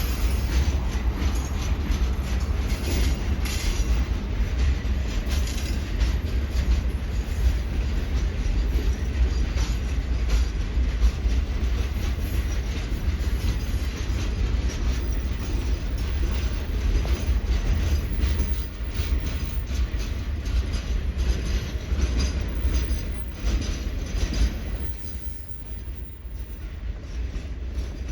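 Norfolk Southern Triple Crown RoadRailer train rolling past: a steady low rumble with a rapid run of wheel clicks over the rail joints, easing off a little near the end.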